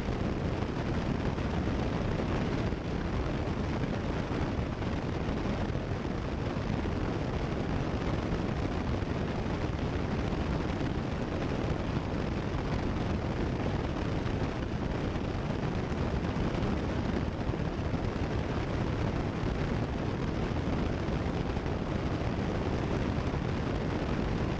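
Steady drone of a Cessna 172 Skyhawk's engine and propeller in level cruise, heard through the cockpit headset audio as an even, unchanging noise heaviest in the low end.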